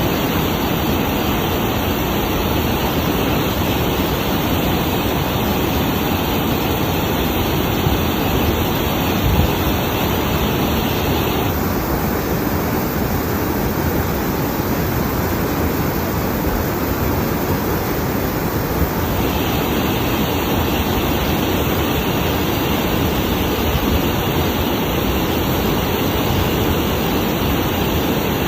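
Steady, loud rushing noise with no breaks, like falling or rushing water.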